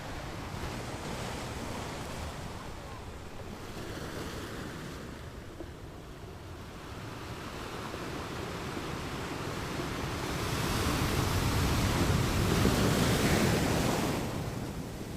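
Ocean waves washing in with a steady rush of surf; a wave builds to its loudest about two-thirds of the way through, then falls back near the end.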